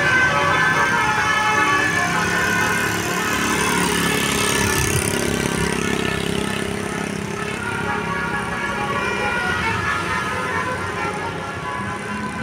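Bus engine running with a multi-note horn sounding in steady held tones, fading slowly as the bus moves off.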